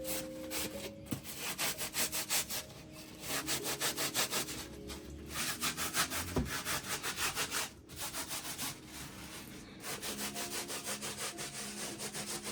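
Rapid, even rubbing or scraping strokes, about five a second, in runs broken by brief pauses.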